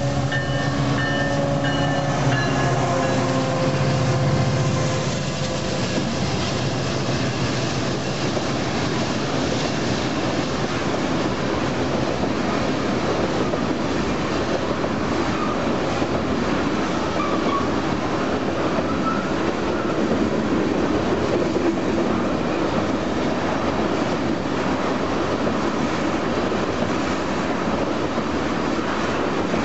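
Diesel locomotives of a freight train passing close by, their engine drone sliding down in pitch as they go past during the first few seconds, then the steady rolling noise of a long string of tank cars' wheels on the rails.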